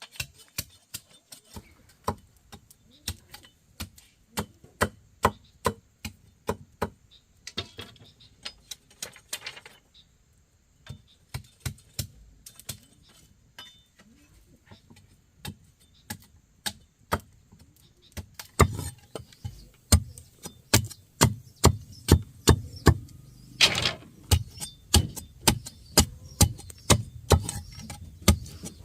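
Repeated sharp knocks of a hand tool striking wood, about two to three blows a second, getting clearly louder and heavier about two-thirds of the way through.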